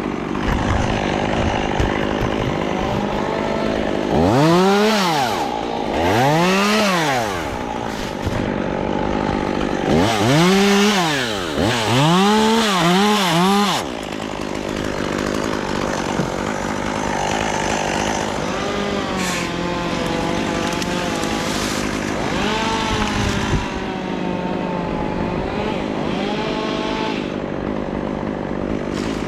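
Two-stroke chainsaw running and revved up and back down about five times in the first half, the last three in quick succession. It then runs on more steadily at part throttle, its pitch wavering.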